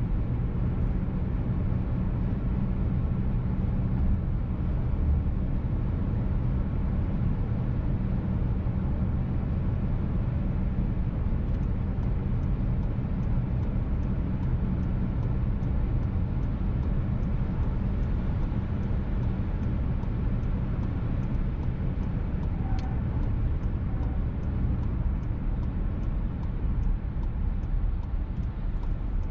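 Steady in-cabin drone of a VW T-Roc petrol car driving at speed: tyre and engine noise that holds evenly throughout.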